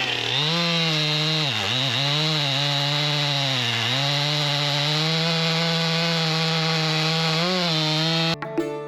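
Stihl MS 400 C chainsaw running at high revs while cutting logs. Its pitch dips twice in the first four seconds as the chain takes load, then holds steady. It cuts off suddenly about eight seconds in.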